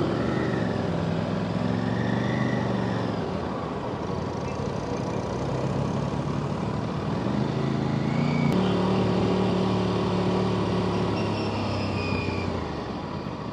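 Aprilia RS 457's parallel-twin engine running under way, its pitch rising as it accelerates about two-thirds of the way through, then easing off near the end.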